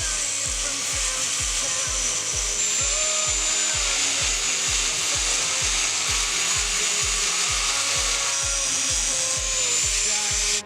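Power tool working thick steel bar, a steady harsh hiss with a faint high whine, under background music with a steady beat of about two a second. Both stop suddenly together near the end, at a cut.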